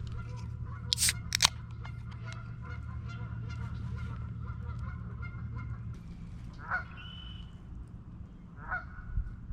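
Honking bird calls repeating in the background. Two sharp clicks come about a second in, and a steady low hum stops about six seconds in.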